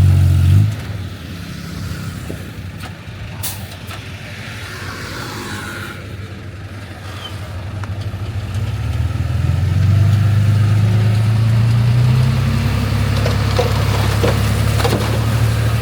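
Heavy diesel engine of earthmoving machinery running. It is loud in a brief burst at the start, eases off, then builds up again about halfway through and holds a steady, loud drone.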